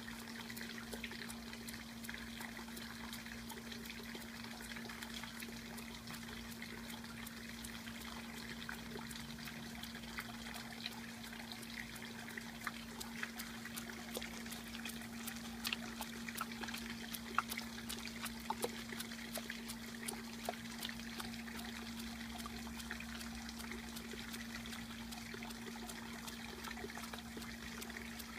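Water trickling and dribbling, with many small droplet splashes, over a steady low hum.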